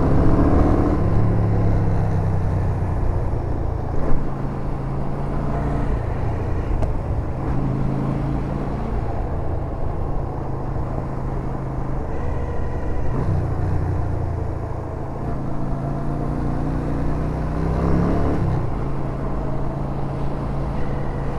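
Yamaha SRV250 V-twin motorcycle engine running under way, its pitch rising with the revs now and then. A faint high whine comes and goes over it, which the rider puts down to a slightly broken rev counter in cold weather.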